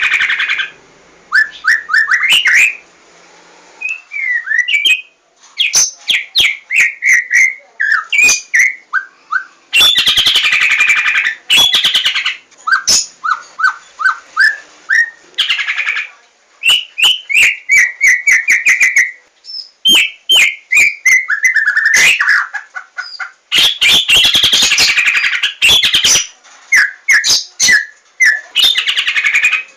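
White-rumped shama of the Javan 'larwo' form singing: a varied, unbroken run of quick whistled notes and trills, broken twice by longer harsh, rattling bursts.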